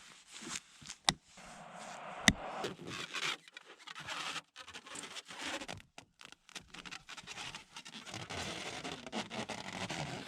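Wood scraping and rubbing, with two sharp knocks about a second and two seconds in.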